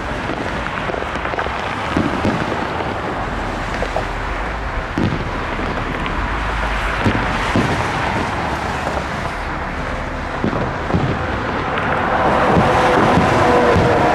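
Fireworks booming at irregular intervals, about ten dull thumps, over a steady rush of wind on the microphone and outdoor background noise.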